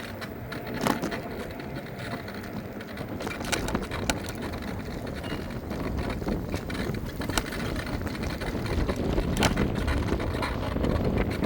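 Riding noise from an electric scooter: a steady low rumble of tyres and wind on the microphone that grows louder towards the end, with a handful of short sharp clicks or knocks.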